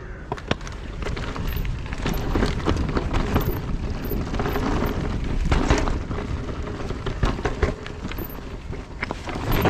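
Electric mountain bike riding over rough, rocky trail: many sharp clacks and rattles from the tyres and bike hitting rocks and roots over a steady low rumble.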